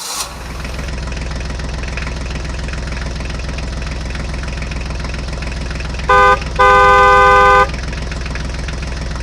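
Tractor engine running steadily at a low, even drone, with a vehicle horn sounding twice about six seconds in: a short toot, then a longer one lasting about a second.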